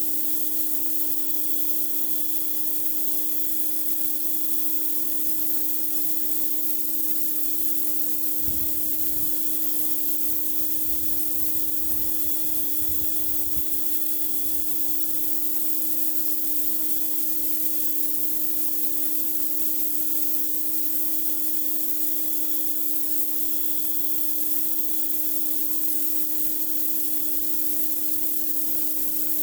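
Pressure washer blasting a driveway: a steady hiss of high-pressure water spray over the machine's motor humming at a constant pitch, with a few brief low rumbles about a third of the way in.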